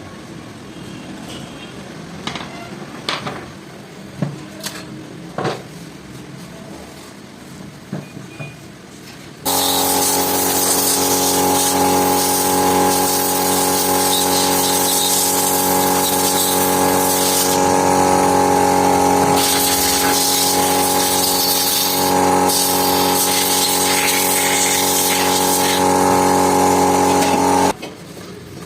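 Light taps and clinks of metal parts being handled, then an electric power tool starts abruptly about a third of the way in. It runs loud and steady at one speed, then stops abruptly near the end.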